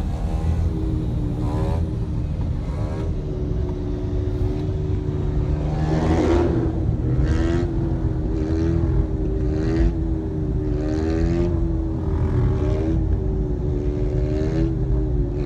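Road traffic while driving: a steady low engine and road rumble with a humming tone that wavers in pitch, and brief louder surges every second or so.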